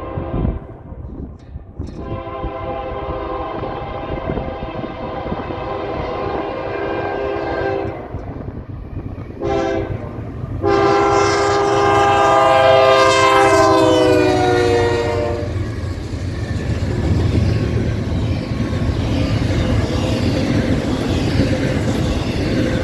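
Freight locomotive's air horn blowing several notes at once in the grade-crossing pattern: long, long, short, long. The last blast is the loudest and drops in pitch as the locomotive passes. It is followed by the steady rumble and wheel clatter of the freight train rolling by.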